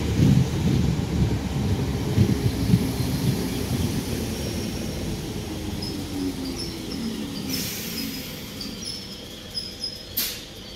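Class 313 electric multiple unit pulling into the platform and slowing, its low rumble dying away. Faint short high squeals come in the second half, then a brief hiss and a sharp click near the end.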